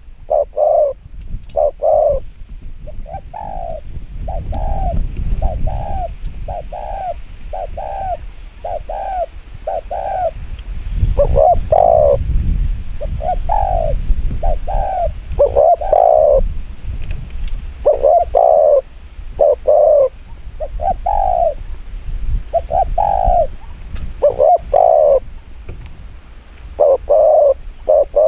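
Spotted dove cooing fast and excitedly: a long run of short, low coos, roughly one to two a second, broken by a few short pauses. A low rumble lies underneath.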